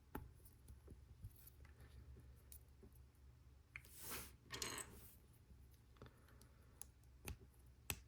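Faint clicks and light rustling of plastic Lego Technic pieces being handled and pushed together, with a few sharp separate clicks and a brief rustle about four seconds in.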